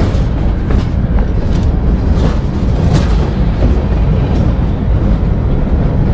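Freight train cars rolling directly over a camera set under the track: a loud, steady low rumble, with a few sharp clacks from the wheels.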